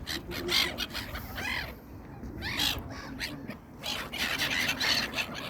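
A flock of wild birds calling, many short arched calls following one another closely.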